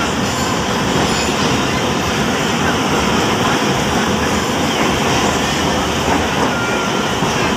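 Passenger train pulling into a station, heard from inside the coach: the steady, loud running noise of the carriage and its wheels on the rails.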